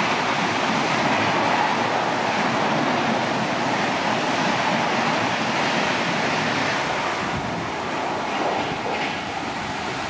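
Heavy monsoon rain and the rushing of an express train's coaches passing at about 133 km/h, a steady wash of noise that eases slightly as the last coach goes by.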